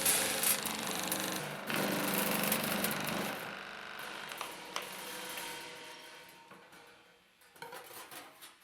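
Power tool cutting stainless steel sheet: it runs steadily with a fast mechanical chatter for about three seconds, breaks briefly, then fades away over the next few seconds, with a few light clicks near the end.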